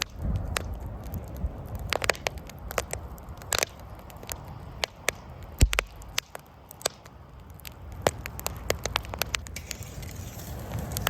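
Wood campfire crackling, with irregular sharp pops and snaps and one heavier low thump a little past halfway.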